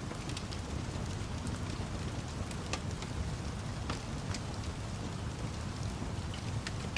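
Steady rain with a low rumble, and a wood fire crackling through it in scattered sharp pops.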